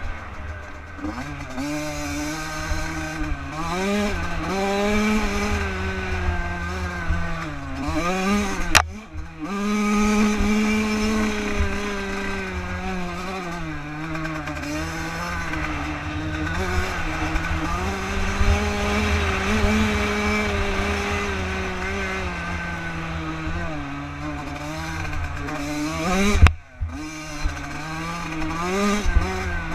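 Bored-out Yamaha YZ Supermini two-stroke dirt bike being ridden, its engine revving up and down again and again as the throttle is opened and closed. A sharp click cuts in about nine seconds in, and a loud thump with a brief break in the engine sound comes a few seconds before the end.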